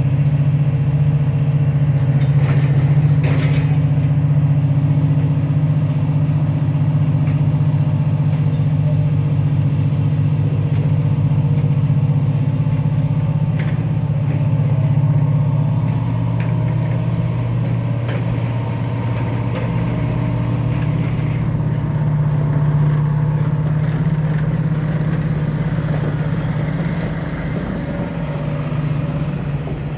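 Diesel train engine idling steadily, a constant low hum that holds throughout.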